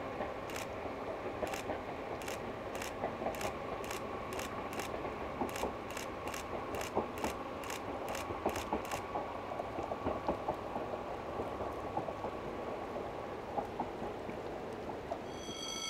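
Distant passenger multiple-unit train crossing a stone viaduct: a steady whine with sharp, regular clicks, about three a second, that stop a little past halfway. The whine fades out a few seconds before the end.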